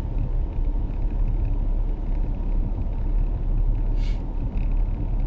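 Car driving in a snowstorm, heard from inside the cabin: a steady low rumble of engine and tyre noise. A brief hiss about four seconds in.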